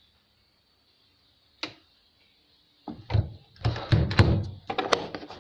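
Near silence, then a single sharp click about a second and a half in, followed from about three seconds on by a rapid run of loud knocks and thumps.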